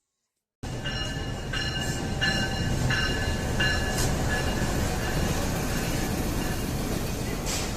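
Passenger train moving on the track: a steady rumble with a run of short high squeals, about one every 0.6 seconds, for the first few seconds, then even running noise. The sound starts abruptly about half a second in.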